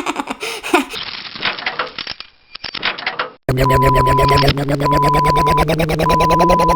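Garbage truck at work: crackling and crunching for the first three seconds or so. Then, after an abrupt change, the truck's engine runs with a rapid, steady pulse while its backup alarm beeps about once a second.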